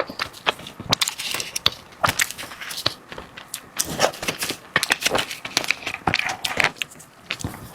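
Close-miked eating: crunchy bites and chewing of dessert, heard as a quick, irregular run of sharp crackling clicks.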